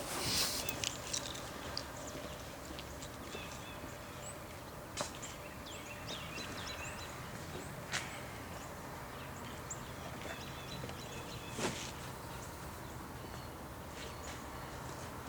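Scattered knocks and clunks of things being moved about by hand over a steady background hiss, with faint chirps in the background.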